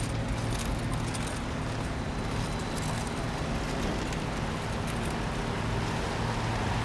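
Steady road traffic noise: vehicles running along a busy road, with a constant low engine hum underneath.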